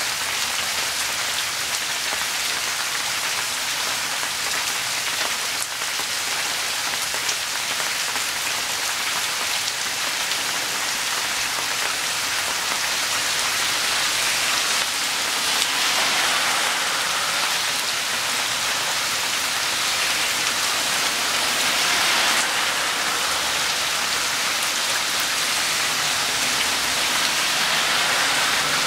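Rainstorm: rain falling steadily on wet soil and plants, growing a little louder from about halfway through.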